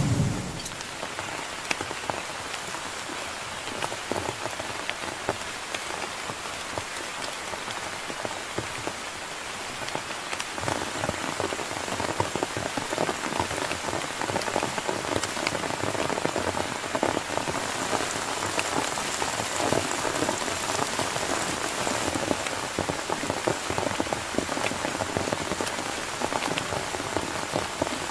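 Heavy rain falling steadily, with many separate drops striking a surface close by, growing a little heavier about ten seconds in.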